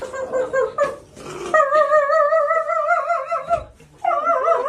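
A pet animal's long, wavering cries: a short one at the start, a long drawn-out one from about a second and a half in, and another beginning near the end.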